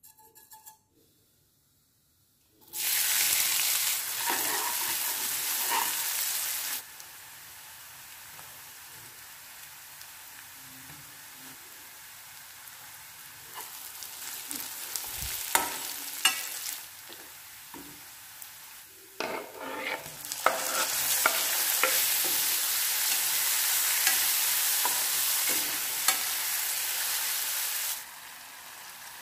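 Ghee sizzling in a metal pan as cumin seeds, then chopped onion, garlic and green chilli, then tomatoes fry, with a spoon stirring and knocking against the pan. The sizzle comes in two loud stretches of several seconds with a quieter frying spell between, and stops abruptly near the end.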